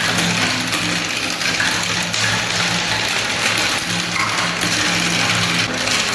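Many marbles rolling down plastic spiral marble-run tracks: a continuous rattle of small clicks and rolling noise, with a steady low hum that shifts in pitch.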